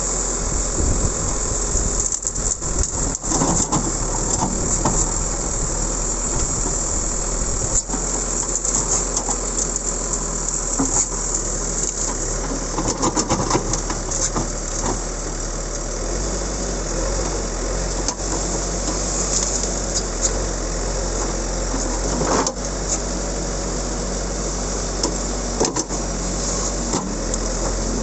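JCB backhoe loader's diesel engine running steadily while working, with scattered knocks and rattles throughout.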